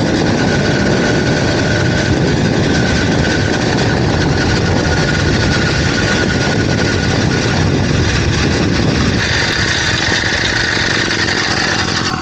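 Small two-stroke motorized-bicycle engine running steadily at an even speed; the low rumble drops away about nine seconds in.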